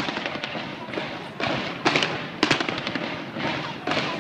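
Fireworks exploding in quick succession, a rapid string of bangs and crackles with a thick cluster about halfway through.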